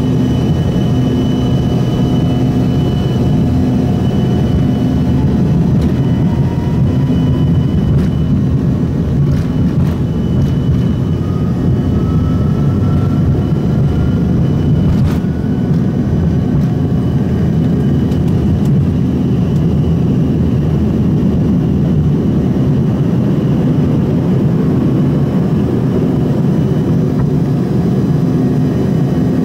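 Steady loud engine and air noise inside the cabin of an Embraer ERJ-145 regional jet, from its rear-mounted Rolls-Royce AE 3007 turbofans. A faint whine slowly rises in pitch over several seconds.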